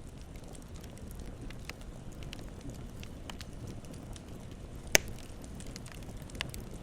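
Campfire burning with a steady low rumble and scattered crackles, and one loud sharp pop near the end.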